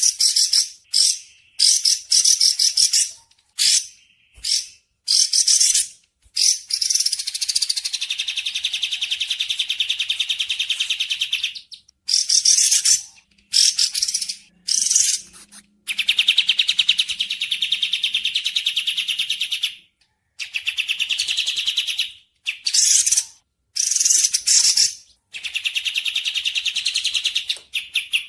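Recorded bird song: short high-pitched phrases with brief silent gaps, alternating with long rapid trills that last several seconds.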